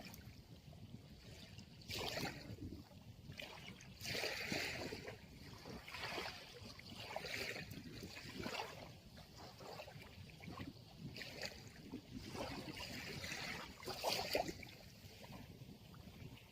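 Small sea waves washing in and draining off the shore, in irregular surges every second or two over a low rush.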